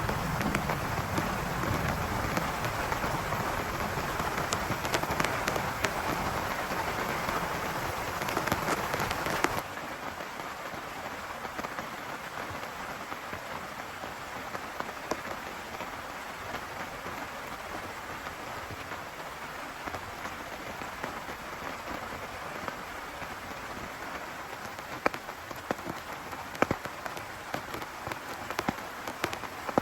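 Heavy rain falling steadily on a tent, with a low thunder rumble dying away at the start. About ten seconds in, the sound drops abruptly to quieter, lighter rain with scattered individual drop hits.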